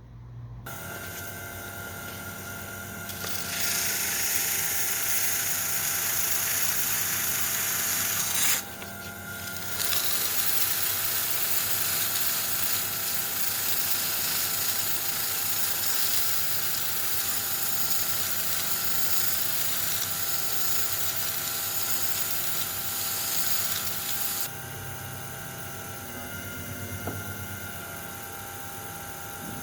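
An electric power tool starts up and runs with a steady whine. About three seconds in, a loud hissing of work being cut or abraded joins it, breaks off briefly near nine seconds, resumes and stops about five seconds before the end while the motor keeps running.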